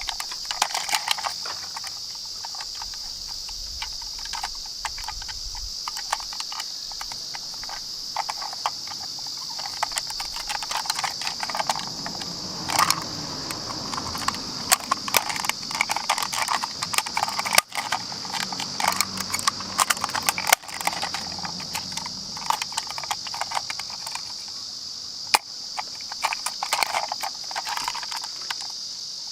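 Die-cast toy minicars clicking and clattering as they are handled and knock against each other and hard surfaces, many small sharp metallic clacks over a steady high-pitched buzz.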